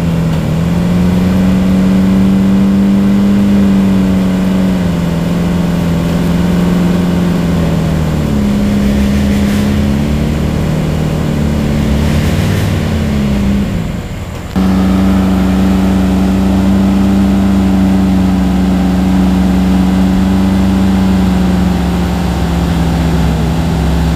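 Off-road 4x4 vehicle's engine running steadily, its pitch stepping up and down a few times with the throttle. About halfway through the sound dips briefly and cuts back in sharply.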